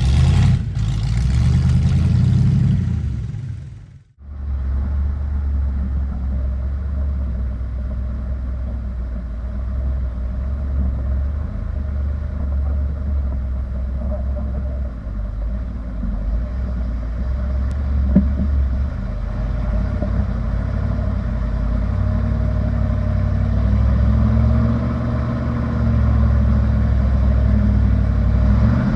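Old Ford mud truck's engine running with a steady deep drone, briefly cutting to near silence about four seconds in. Near the end the revs rise and fall.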